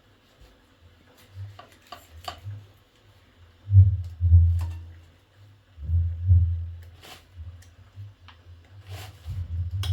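Dull, low thumps in three clusters, about 4 and 6 seconds in and again near the end, with a few light clicks and knocks between them.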